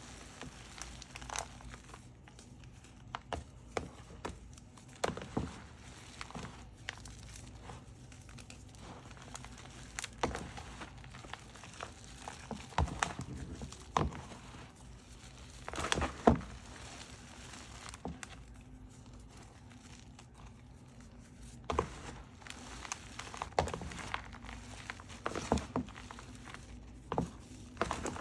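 Gym chalk being crushed and handled by hand: irregular soft crunches and crinkling, the loudest about halfway through.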